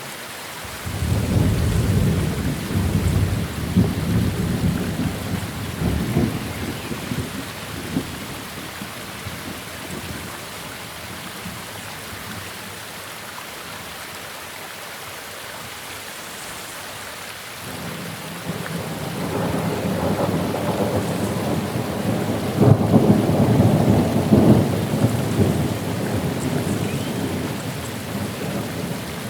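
Steady rain with two long rolls of thunder. The first rumbles in about a second in and dies away over several seconds. The second builds about two-thirds of the way through, is loudest a few seconds before the end and is still rumbling as it closes.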